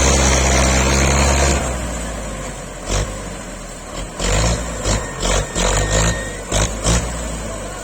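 Belarus tractor's diesel engine running hard under load, then easing off suddenly about a second and a half in. After that it runs lower while a string of short, irregular thumps comes through.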